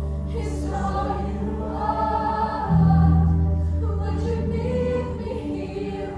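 Live worship band and singers performing a slow gospel song, with sustained bass notes and voices singing between the words of the lyrics.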